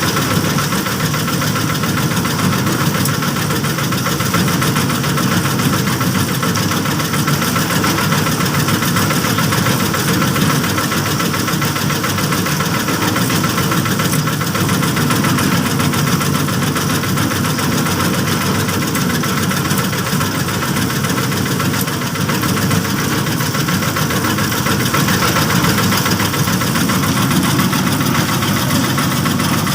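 Small engine running steadily at a constant speed throughout.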